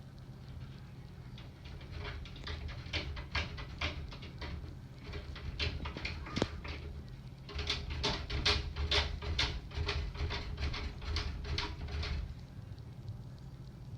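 Rapid, irregular tapping: many quick sharp ticks in runs of a few seconds, with short breaks between, over a steady low hum. The source is unexplained.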